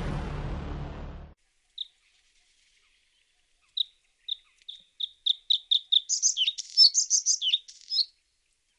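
A loud bed of music and noise cuts off about a second in. Then a songbird sings: a single high note, then a run of high notes repeated faster and faster, breaking into a quick, higher twittering phrase with downward-slurred notes.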